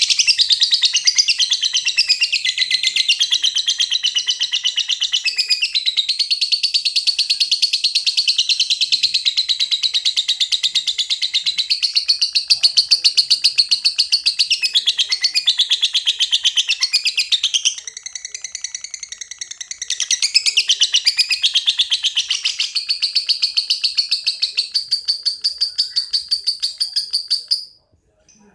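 A lovebird's 'ngekek': one long, unbroken run of rapid, high-pitched chattering notes, the long continuous song that Indonesian lovebird keepers prize. It drops in level for about two seconds past the middle, then picks up again and stops shortly before the end.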